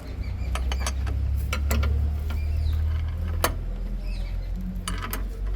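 A low engine rumble that swells over the first few seconds and then eases, with scattered sharp metallic clicks and knocks from tool work.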